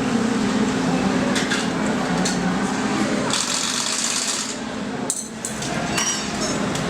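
Metal tools clinking and tapping on a dirt bike during a rushed engine swap, over a steady background hum, with a hiss lasting about a second a little over three seconds in.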